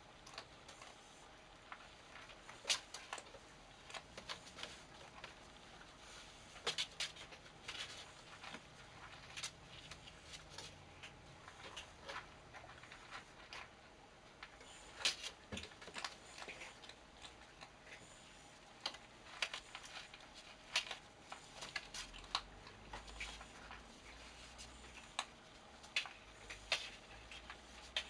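Two cats playing: scattered light taps, scratches and scuffles at an irregular pace, a few sharper ones standing out, over a faint steady room hum.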